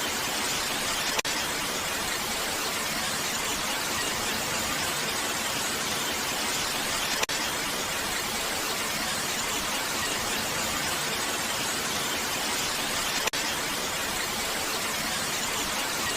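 Steady rain noise, an even hiss. A brief click comes about every six seconds.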